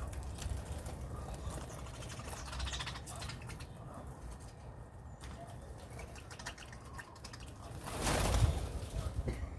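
Birds calling faintly over a low rumble, with a brief loud rustling burst near the end.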